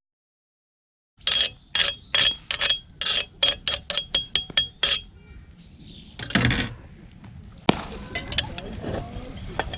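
Metal cookware and utensils clinking, starting about a second in: about a dozen quick, sharp clinks with a bright ringing tone over some four seconds, then a single heavier knock and a few scattered lighter clicks.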